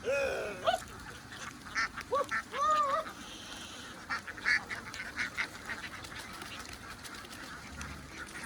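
A flock of ducks quacking, with several drawn-out calls that rise and fall in pitch in the first three seconds, then a run of short quacks.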